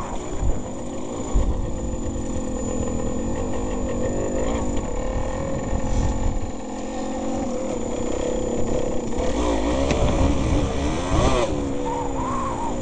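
Yamaha DT200R's single-cylinder two-stroke engine under way, revving up and down with the throttle, with wind rumbling on a helmet-mounted microphone. A sharp rev rises and falls about eleven seconds in.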